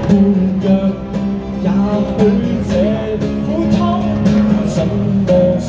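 Live band's instrumental interlude in a Cantopop song: a lead guitar playing a melodic line with bending, gliding notes over sustained guitar chords.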